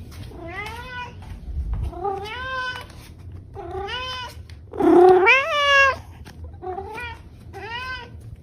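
Domestic cat meowing repeatedly, about six drawn-out meows that rise and fall in pitch. The loudest and longest comes about five seconds in.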